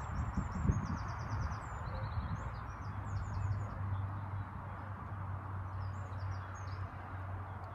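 Small birds chirping in quick runs of short high notes, mostly in the first second and a half and again near the end, over a steady outdoor hiss and a low hum.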